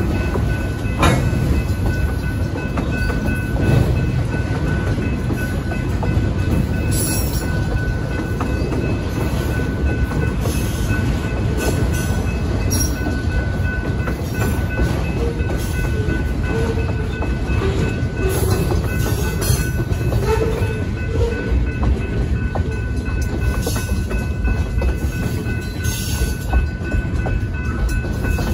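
Freight cars rolling through a grade crossing: a steady low rumble with scattered knocks from the wheels, over the crossing's GS Type 3 electronic bell ringing.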